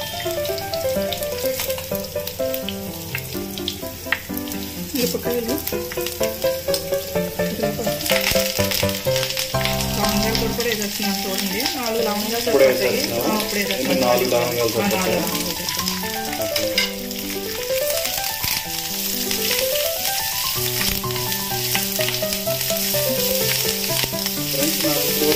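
Garlic cloves, dried red chillies and curry leaves sizzling in hot oil in a nonstick frying pan as a tempering, stirred with a spatula; the sizzle grows louder and thicker about a third of the way in. A melody plays underneath.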